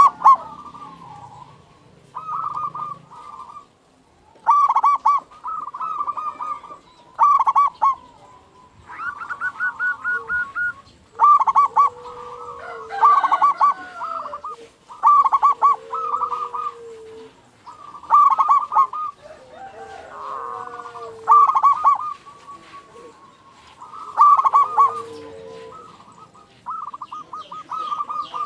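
Zebra dove (perkutut) cooing: phrases of rapid, pulsing coos about every two to three seconds, with a lower drawn-out call in places.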